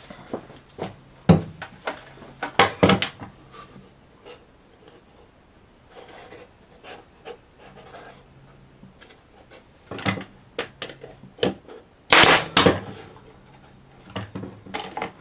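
Cedar fence-picket boards being handled and fitted together: scattered wooden knocks and clatters with some rubbing between, the loudest cluster near the end.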